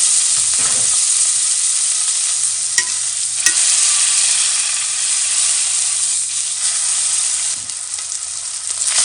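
Beef searing in olive oil in a hot pan: a loud, steady sizzle as the outside browns. Two sharp clicks about three seconds in, and the sizzle dips briefly near the end.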